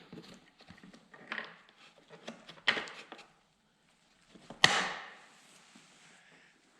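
Knocks and clatter of bolts, nuts and tools being handled while plastic bodywork is fastened onto a pit bike. There is one sharp, loud knock about four and a half seconds in.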